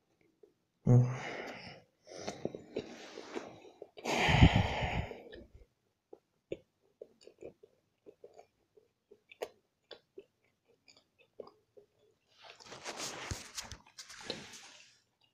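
Close-up eating sounds: a few loud noisy bursts in the first five seconds, then soft, irregular chewing clicks for several seconds. Another noisy stretch of phone handling comes near the end.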